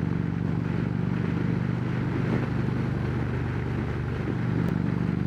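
Harley-Davidson Road Glide Special V-twin engine running steadily at cruising speed through its Rinehart slimline true-dual exhaust, with wind noise over the helmet-mounted mic.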